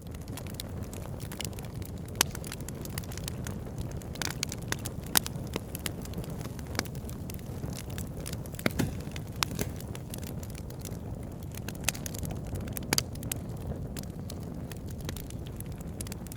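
Wood campfire crackling, with frequent sharp pops and snaps, a few louder than the rest, over a steady low rumble.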